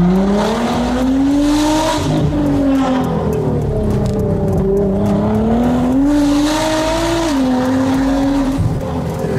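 Nissan GT-R's twin-turbo 3.8-litre V6 pulling hard, heard from inside the cabin. The revs climb and fall, with a rush of hiss as they peak near two seconds and near seven seconds, and a sharp drop in revs just after seven seconds.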